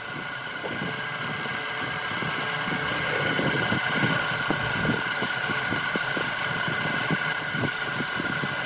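Wood lathe running with a steady motor whine while a turning tool cuts the spinning wood in irregular scrapes and ticks.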